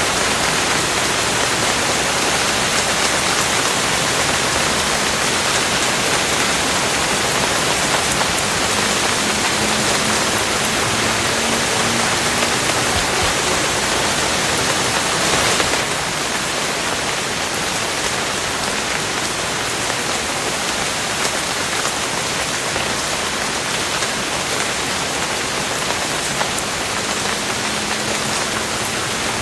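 Steady, dense rain falling, an even hiss of many drops. About halfway through it turns slightly quieter and softer, as at a change of recording.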